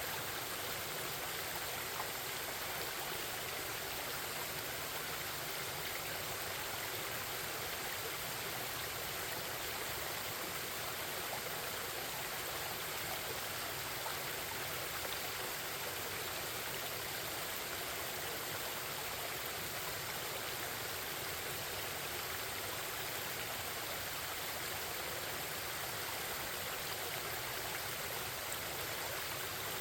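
Forest stream flowing and babbling steadily: an even rush of running water with no change in level.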